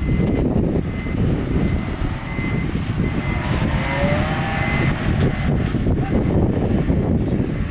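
Diesel engine of heavy earthmoving machinery running steadily under load, with a faint thin squeal coming and going above it.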